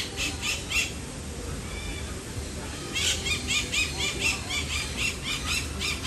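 Birds calling in rapid runs of short, high squawks, about four a second: a brief run at the start, a few scattered calls, then a longer run from about halfway through.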